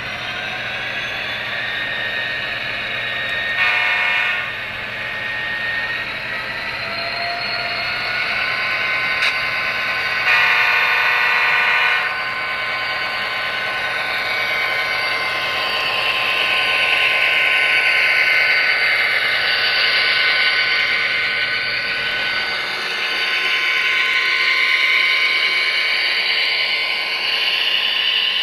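HO-scale model locomotive's onboard sound running, with two short horn blasts, one about four seconds in and a longer one around ten to twelve seconds in.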